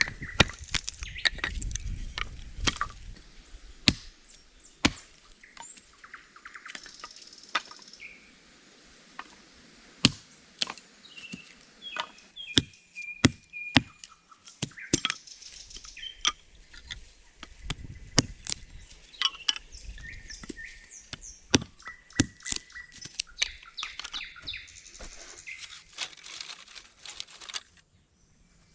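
Hand-tool work on wood: sharp knocks and cracks at irregular intervals, a few loud single strikes among them, with birds chirping now and then.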